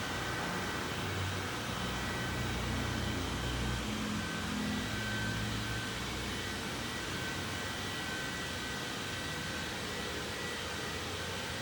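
Xiaomi Roborock Xiaowa E35 robot vacuum running: a steady whir from its motor with a faint high whine over it, and a lower rumble that swells between about one and five seconds in.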